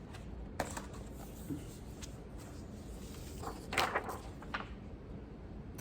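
A few light clicks and handling noises from a large makeup palette being handled, with a small cluster of clicks a little after halfway.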